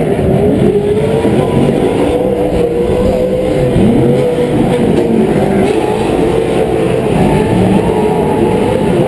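Several Pro 4 off-road race trucks running at racing speed, their engines revving up and down with many pitches rising and falling over one another.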